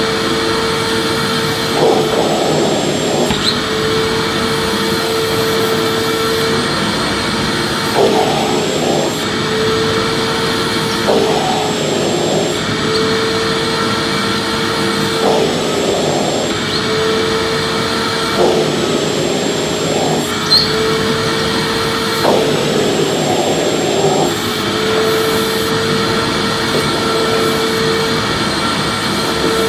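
Vacuum cleaner running steadily: a constant whooshing hum with a steady motor tone and a faint high whistle. Every few seconds the hum briefly wavers and turns rougher.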